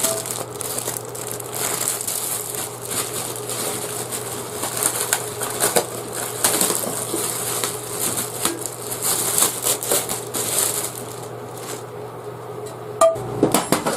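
Packaging being handled and unwrapped: a continuous crinkling, rustling noise with many small clicks, and a few louder knocks near the end.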